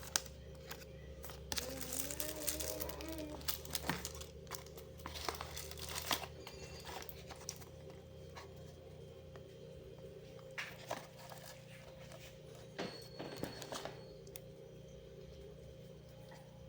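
Mini electric fan's small motor humming steadily, with clicks and plastic crinkling from handling, busiest in the first half.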